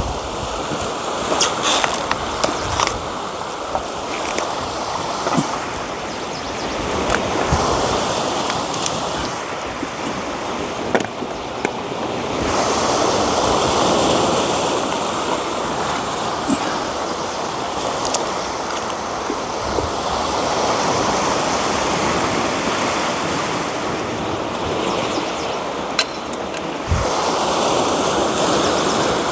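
Waves washing onto a shore: a steady rushing that swells and eases every few seconds, with scattered light clicks and knocks.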